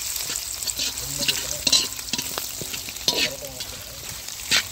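Onion, garlic, ginger and whole spices sizzling in hot oil in a large kadai, stirred with a metal spatula that scrapes and clicks against the pan in repeated strokes, a few louder than the rest.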